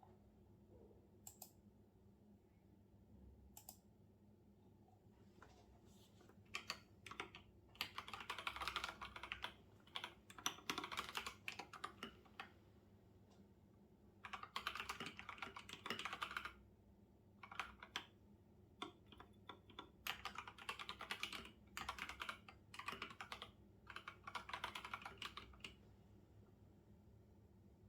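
Faint computer keyboard typing: a few scattered keystrokes, then runs of rapid keystrokes in bursts of a second or two with short pauses, stopping a couple of seconds before the end.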